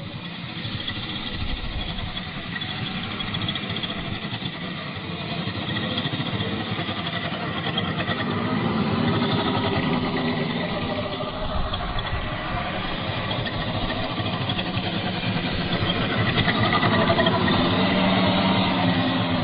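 Losi Baja Rey 1/10 RC trophy truck driving under its brushless electric motor, the drive sound rising and falling with the throttle and loudest about nine and again about seventeen seconds in.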